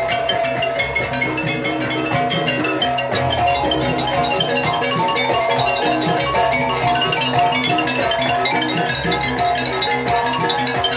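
Banyuwangi jaranan gamelan music: metallophones playing fast, repeating pitched notes over drums at a steady, lively pace.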